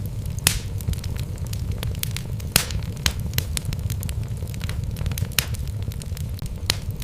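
Wood fire in a fireplace crackling, with frequent sharp pops over a steady low rumble of burning logs.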